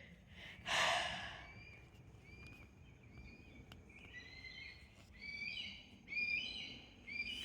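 A run of short, high-pitched squealing bird calls, each a quick upward slide, repeated many times, often in pairs, and growing louder over the last few seconds. These are calls the walker takes for a young hawk's, or for prey a hawk has just caught. A brief breathy rustle comes about a second in.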